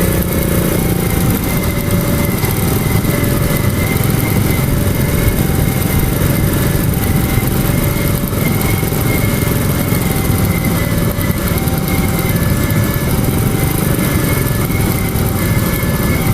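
Cement freight train rolling steadily over a level crossing, a continuous low rumble of locomotive and wagons. Over it the crossing's warning alarm sounds, two tones alternating evenly about every three-quarters of a second.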